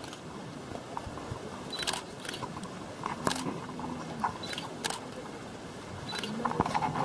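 Camera shutter clicks, several of them at irregular intervals, over a low background.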